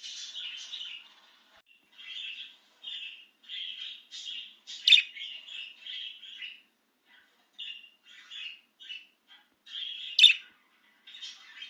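Budgerigar chirping and warbling in quick runs of short chirps, with two louder, sharper calls about five seconds in and near the end.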